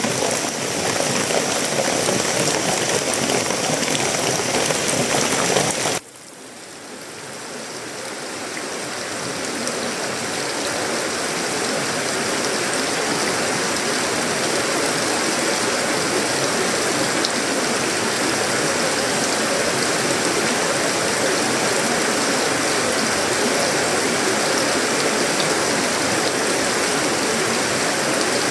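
Heavy tropical rain falling on sheet-metal roofing, wood and leaves as a dense, steady hiss. About six seconds in it drops away abruptly, then swells back up over several seconds to the same steady downpour.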